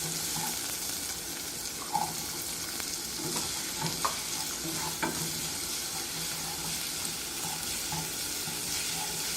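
Chopped onions and green peppers sizzling in hot olive oil in a pot, with a few light knocks of stirring.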